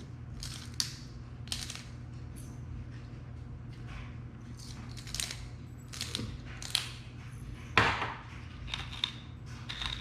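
Scattered short rattles, clicks and taps, about ten of them, the loudest a little before the end, from seasoning and handling raw bird meat and kitchen things, over a steady low hum.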